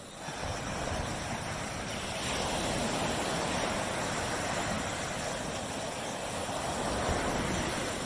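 Tropical surf washing up on a beach: a swell of rushing wave noise that builds over the first couple of seconds, holds, and eases off near the end.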